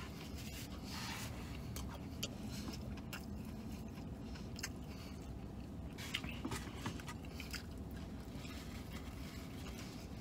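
A man chewing food close to the microphone, with scattered small wet clicks and crackles, and light paper and cardboard rustling as he handles the food box and a paper-wrapped item, over a low steady hum.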